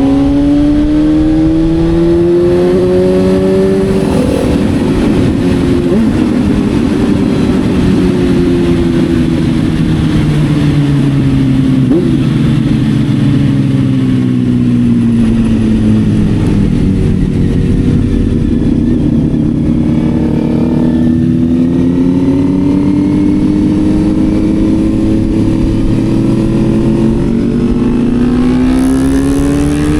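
Motorcycle engine under way at speed, heard with steady wind and road noise; the revs climb, then fall slowly for about ten seconds, dip briefly about twenty seconds in, and climb steadily again through the end.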